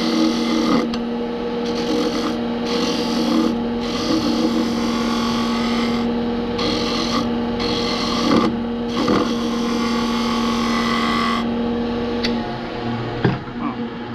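Wood lathe motor humming steadily while a turning tool scrapes and cuts the spinning poplar blank in repeated passes. The hiss of cutting starts and stops several times and dies away near the end, followed by a sharp click.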